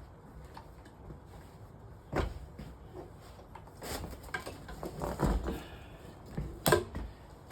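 Bumps and clatter of an electric drain-cleaning machine and its cable and cord being handled and set in place, with a sharp knock about two seconds in and another near the end.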